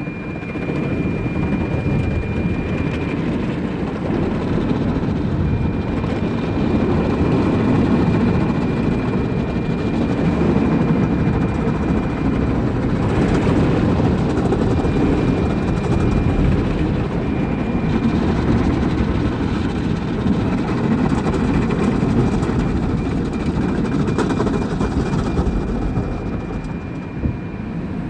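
Automatic car wash machinery running steadily with a loud rumbling noise, with a thin high whine that comes and goes.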